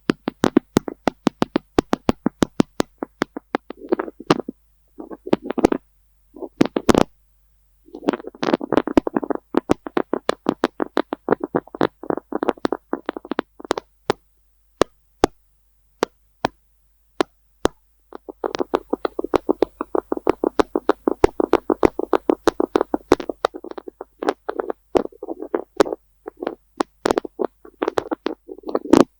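Fingers tapping on an object: sharp single taps with pauses, broken by long runs of very fast tapping that each last several seconds, about a third of the way in and again past the middle.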